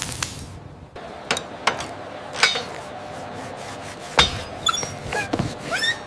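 Animated-cartoon sound effects: a scattering of sharp knocks and clinks, with short rising squeaky chirps in the second half.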